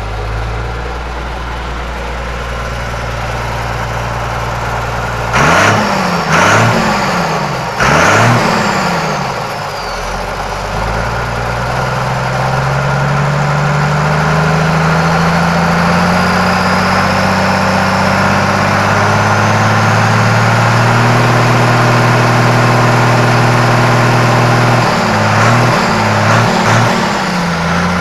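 John Deere 3650 tractor's diesel engine idling, then revved in two quick throttle blips. It then climbs slowly to a high steady speed and holds it, before dropping back with a few short blips near the end.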